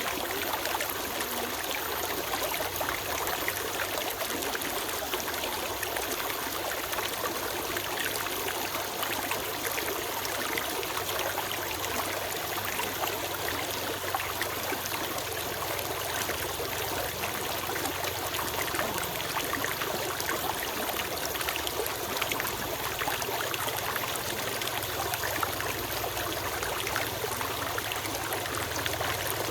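Small forest stream running and trickling steadily, an even rush of flowing water with fine splashing texture.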